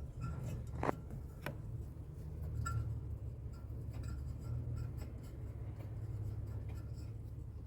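Light rubbing and scratching with a few sharp clicks, the two loudest about one and one and a half seconds in, from hands working on a washing machine's wiring, over a steady low hum.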